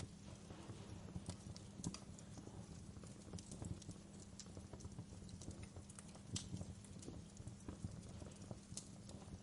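Wood fire crackling in a fireplace: irregular snaps and pops over a low, steady rumble of burning.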